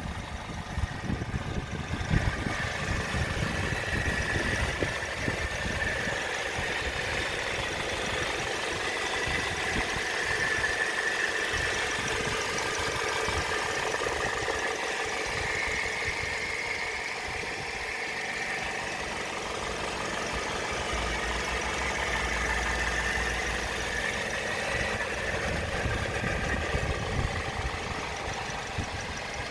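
Toyota 1NZ-FE 1.5-litre four-cylinder petrol engine running steadily at idle, an engine with about 120,000 on the odometer.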